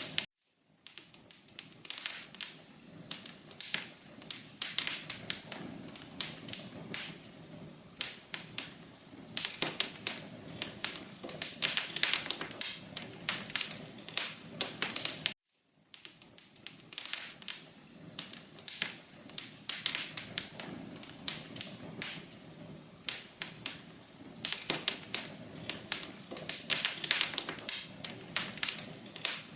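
Fireplace crackling: dense, irregular pops and snaps over a low, steady hiss. The sound cuts out briefly twice, once just after the start and once about halfway through.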